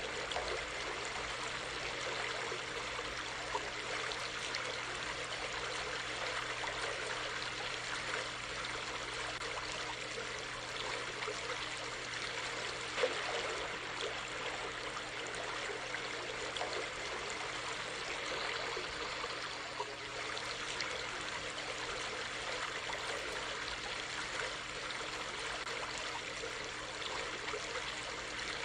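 Creek water running steadily, an even rushing trickle with no pauses.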